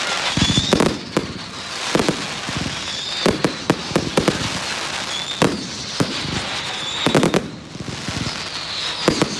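Public fireworks display: aerial shells banging one after another at an irregular pace over a constant crackle, with a few faint whistles gliding in pitch.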